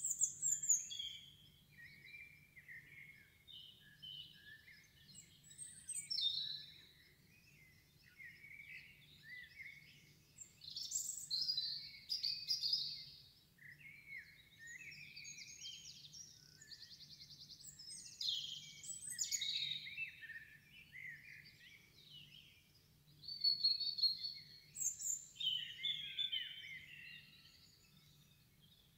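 Songbird singing: a long, varied run of chirps, whistles and quick trills, with a fast buzzy trill a little past halfway, over a faint steady low hum.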